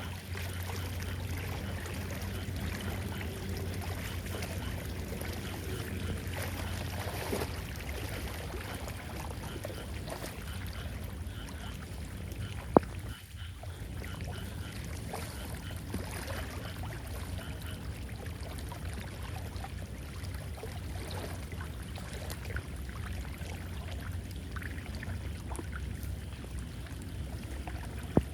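Flood water rushing steadily down a cleared street drain, with one sharp click about 13 seconds in.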